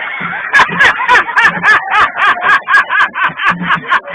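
A man laughing hard in a fast, even string of 'ha' bursts, about five a second, each bursting up and falling in pitch.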